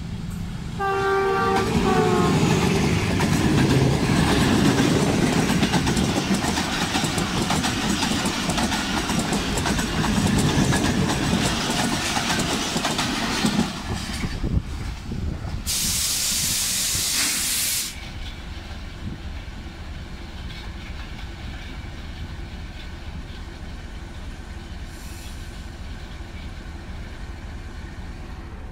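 Diesel locomotive horn giving a short blast about a second in as the express approaches, then the train passing close by with loud, steady wheel and coach noise for about twelve seconds. Shortly after the last coach clears, a loud hiss lasts about two seconds, and then a standing diesel locomotive runs steadily at idle.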